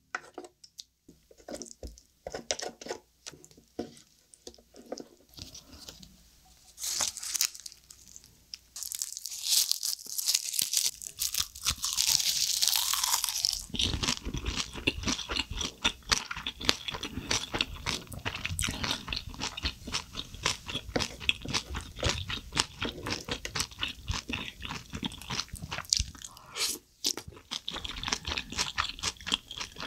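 Close-miked eating of soy-sauce-marinated crab with rice: soft, scattered wet sounds at first, then from about eleven seconds in steady, rapid crunching and chewing, loudest around twelve seconds in.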